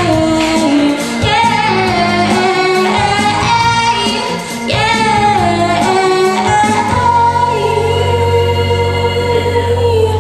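A woman singing a pop ballad over instrumental accompaniment, ending on one long held note over a sustained low chord in the last few seconds.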